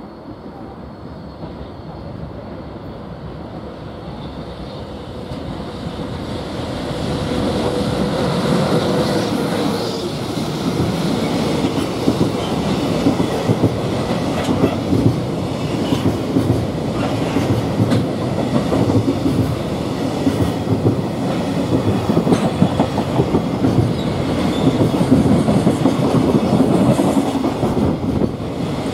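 Electric freight train approaching and passing close by, growing louder for the first several seconds, then its container wagons' wheels clattering over the rail joints in a rapid, repeated clickety-clack. A thin steady whine is heard as the locomotive goes by, about eight seconds in.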